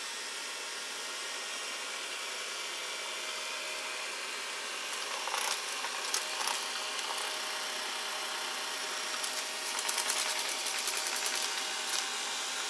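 Xiaomi Mijia robot vacuum cleaner running, with a steady whir and whine from its suction fan and brushes. Bursts of rapid clicking and rattling come about halfway through and again near the end.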